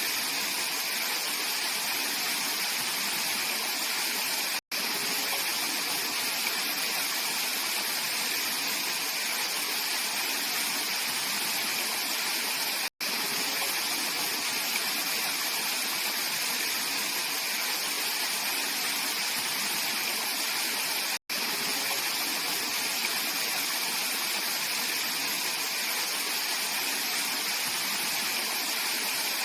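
Mountain valley stream flowing in a steady, even rush of water. The sound cuts out for an instant about every eight seconds.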